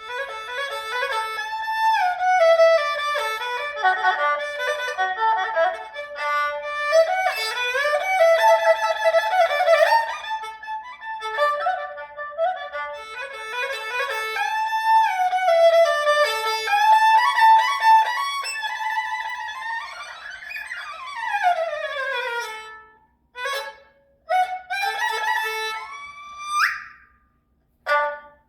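Solo erhu playing a melody full of pitch slides and quick ornaments, imitating birdsong. About twenty seconds in, a run of rapid falling slides gives way to short, broken-off calls and a steep upward slide near the end.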